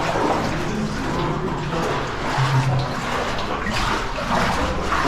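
Water splashing and sloshing in a flooded cave passage, a steady wash with uneven surges.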